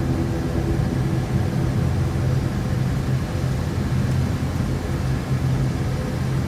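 ATR 72-600's twin turboprop engines running at low power while taxiing: a steady drone with a low hum and a higher humming tone above it.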